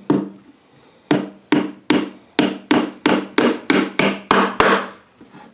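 Hammer driving a nail into a cedar fence-picket board. One blow is followed by a pause of about a second, then a run of about eleven quick strikes, roughly three a second, until the nail is in.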